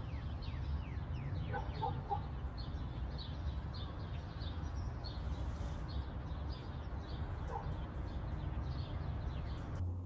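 Birds calling: a string of short, high chirps, a few lower calls among them, over a steady low rumble.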